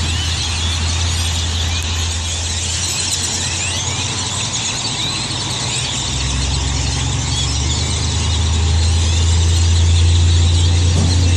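A large flock of birds massed together, calling all at once in a dense, continuous chatter of short squeals and chirps. Under it runs a steady low engine hum that grows louder about halfway through.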